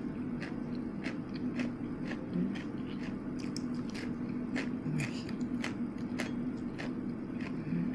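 Close-up chewing and biting of crispy fried food, with irregular crunches about two or three times a second. A steady low hum runs underneath.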